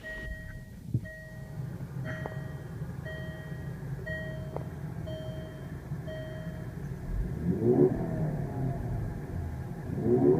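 Push-button start of a Range Rover Evoque's 2-litre turbocharged four-cylinder engine, which catches at once and settles to an idle while an in-car chime beeps about once a second for around seven seconds. Near the end the engine is revved twice, its pitch rising and falling each time.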